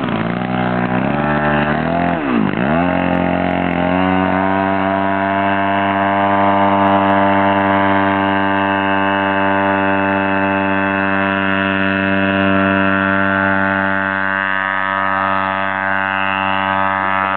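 Engine of a large homemade radio-controlled airplane running loud. Its pitch drops sharply and climbs back twice in the first few seconds, then it holds a steady high pitch at high throttle.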